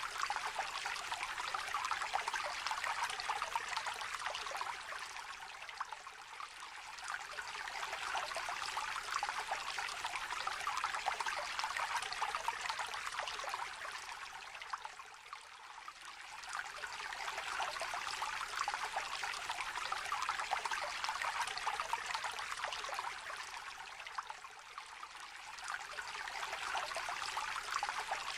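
Small river trickling and babbling in a steady rush of water. It eases a little and swells back roughly every nine seconds.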